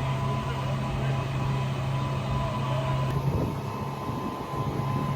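A boat's engine running with a steady drone; the drone fades somewhat about three seconds in.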